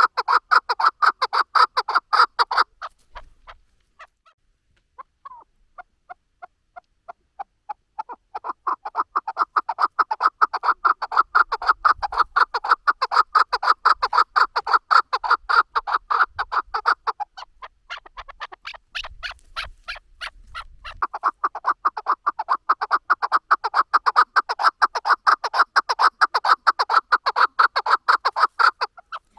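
Chukar partridge calling: long runs of rapid, clucking chuck-chuck notes in three bouts, with short pauses between them.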